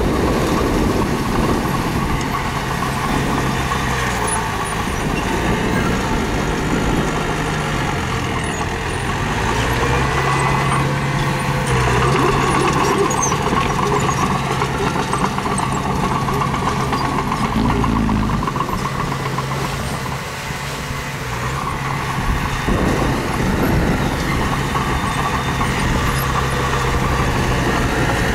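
Diesel engine of heavy earthmoving machinery running continuously, its low note shifting a few times as the load changes.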